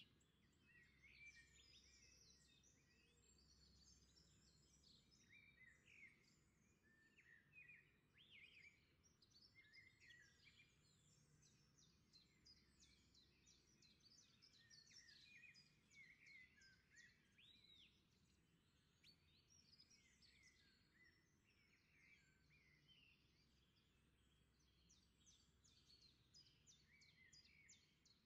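Faint birdsong: many quick chirps and short whistles from songbirds, over a quiet low hum.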